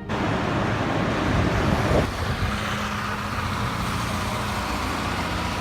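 Motor vehicle engine and road noise. The engine pitch rises to a peak about two seconds in, then settles into a steady low hum.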